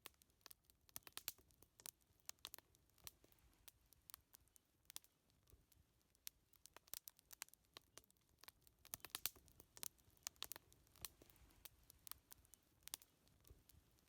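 Wood fire crackling, with a steady scatter of sharp irregular pops and snaps.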